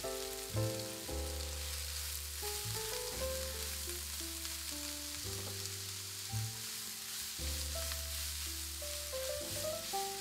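Shredded cabbage, carrot, onion and bok choy sizzling in hot oil in a frying pan as they are stir-fried with a spatula. Background music with a simple melody and bass plays over it.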